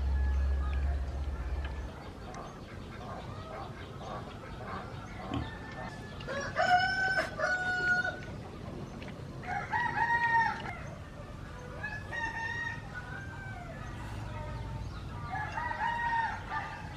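Roosters crowing several times, each crow a long call a second or more, with chickens clucking softly between. A low hum stops about two seconds in.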